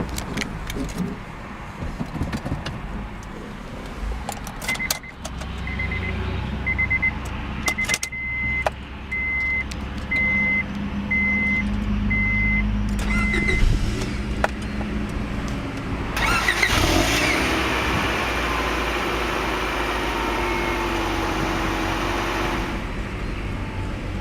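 Key and ignition clicks in a 1999 Honda Prelude, then a warning chime beeping evenly about once every 0.8 s for around nine seconds. About sixteen seconds in, the car's engine starts with a louder rush that settles after several seconds.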